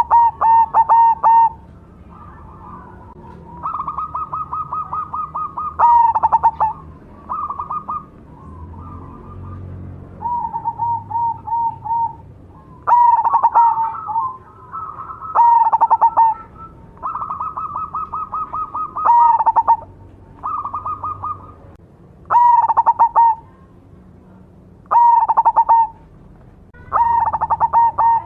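Zebra doves (perkutut) cooing: loud stuttering coo phrases about every three seconds, with a quieter second bird's rapid trilled coos in between.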